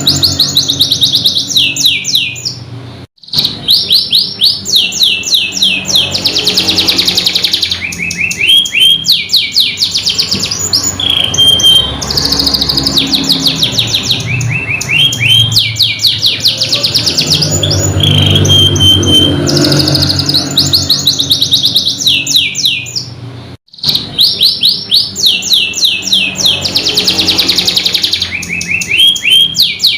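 Domestic canary singing: fast rolling trills of rapidly repeated notes, buzzy runs and short high whistles, going on without pause except for two brief dropouts, about three seconds in and near 23 seconds.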